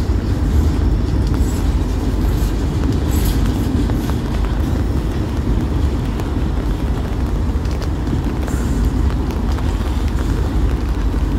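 Train rolling past: a steady low rumble with faint, scattered clicks.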